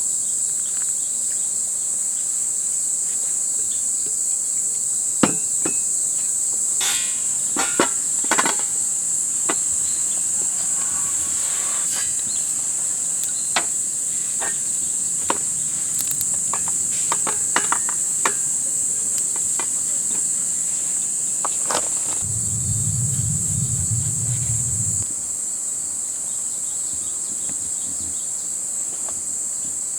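Insects chirring in a steady, high-pitched drone, with scattered light clicks and knocks. A low rumble lasts about three seconds, about three-quarters of the way in.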